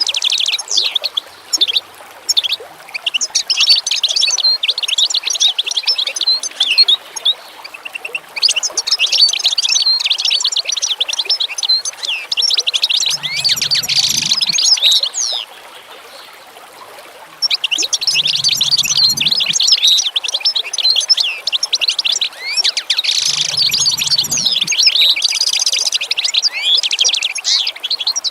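A chorus of small birds chirping and trilling in fast, overlapping calls, falling briefly quiet about halfway through. A short low call sounds three times underneath, a few seconds apart.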